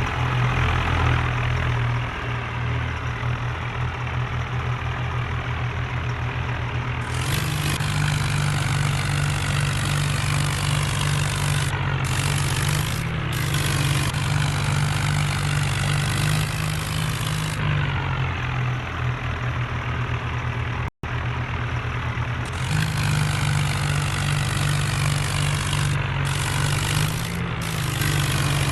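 Diesel tractor engine running, revving up about seven seconds in, easing back down after about ten seconds, then revving up again after a brief break in the sound.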